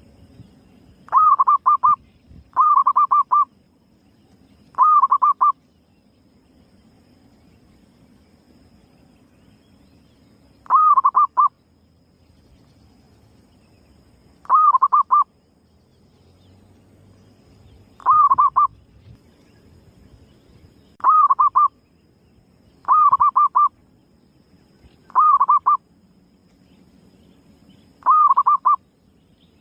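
Female zebra dove (perkutut) calling, the kind of call used to lure other perkutut: ten short cooing phrases, each a quick rise broken into a few rapid pulses, repeated at uneven gaps of one to six seconds.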